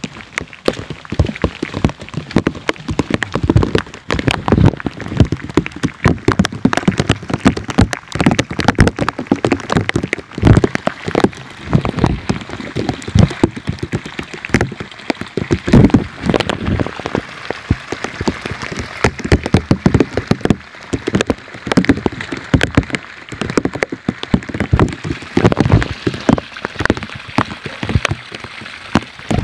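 Heavy rain, with drops striking near the microphone as many loud, sharp, irregular taps over a steady hiss.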